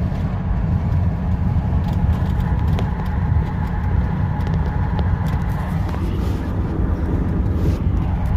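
Steady low drone heard inside the cab of a 2019 Ram 5500, whose Cummins 6.7-litre turbo-diesel is held back by the full exhaust brake down a steep 6% grade, no service brakes in use, with road noise and a faint steady whine above it.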